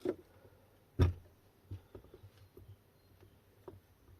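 A few short knocks and clicks of metal motor parts being handled, the loudest about a second in, with fainter ticks after it.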